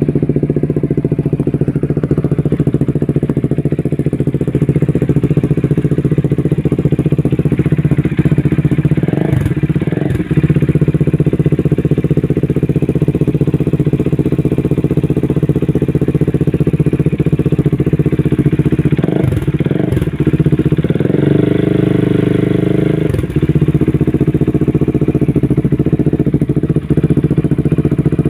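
Bajaj Dominar 400's single-cylinder engine idling steadily through an aftermarket SC-Project exhaust. A couple of quick throttle blips come about a third of the way in and again about two-thirds in, followed by a rev held higher for about two seconds before it drops back to idle.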